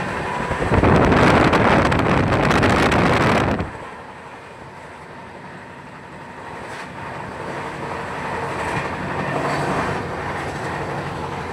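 Moving train heard from on board: a loud rush of noise for about three seconds near the start, then the quieter steady running noise of the train.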